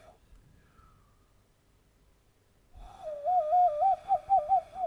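Cupped-hand whistle, made by blowing between the knuckles into hands clasped together, sounding a clear tone that warbles rapidly up and down between two close pitches for about two seconds, starting about three seconds in.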